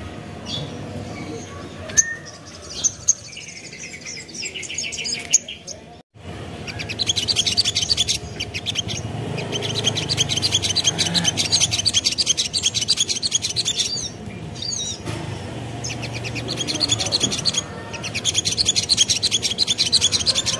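Little spiderhunter (sogok ontong) singing: a few scattered chirps at first, then, after a short break, long runs of fast, high chattering trills with brief pauses between phrases.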